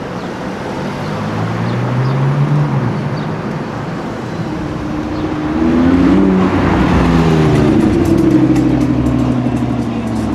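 A car engine accelerating, its pitch climbing twice. The second, louder run comes in the second half, rising and then falling away as the car passes.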